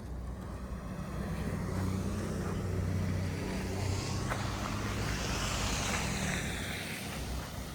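A motor vehicle passing close by: a low engine hum and tyre hiss build up, peak in the middle and fade near the end.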